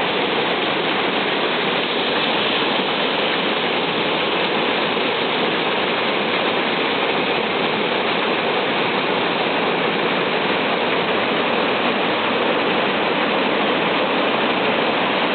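River waterfall: a steady rush of falling water that does not change.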